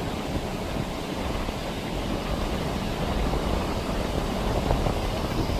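Strong, steady wind rumbling on the microphone as a thunderstorm approaches, with a constant low rush and no distinct events.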